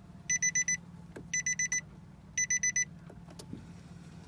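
Nissan E12 Note's in-car warning buzzer beeping in quick groups of four or five, about one group a second, stopping about three seconds in. A few sharp clicks follow, with a low steady hum underneath.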